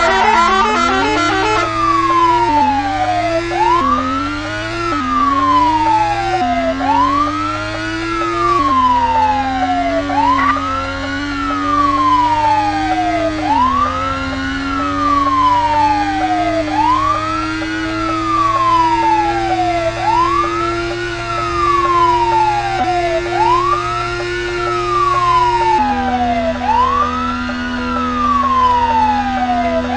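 Police car siren wailing: each cycle rises quickly to a high pitch and then falls slowly, repeating about every three seconds. A steady lower tone runs beneath it and shifts pitch twice.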